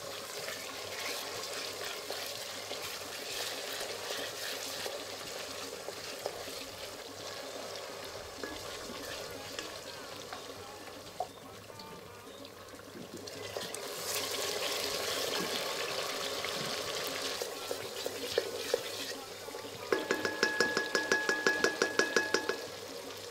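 Onions, dried salted fish and tomato paste sizzling in hot oil in an aluminium pot while a wooden spoon stirs them; the sizzle swells about two-thirds of the way through. Near the end comes a fast, even run of knocks with a ringing tone.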